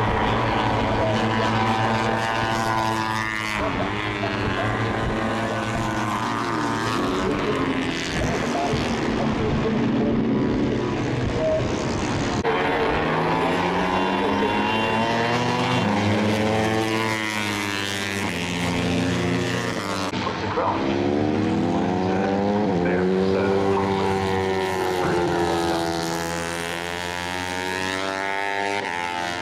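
A pack of Moto3 racing motorcycles, each with a 250 cc single-cylinder four-stroke engine, running at high revs as they pass. Several bikes overlap, their engine notes repeatedly climbing through the gears and dropping again.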